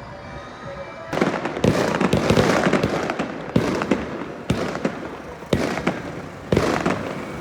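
Firecrackers going off: a dense run of crackling starts about a second in, followed by single sharp bangs about once a second.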